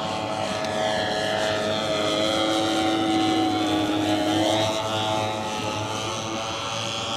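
Twin petrol engines of a large radio-controlled Cessna 310 model plane flying a low pass, running steadily at speed. The engine note grows louder toward the middle as the plane goes by and eases off after.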